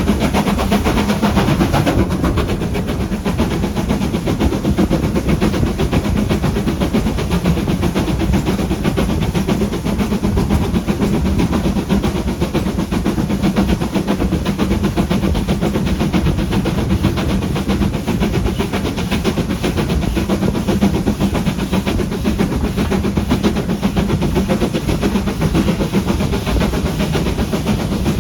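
Railway train running along the line: a steady rumble of wheels on the rails with some clickety-clack.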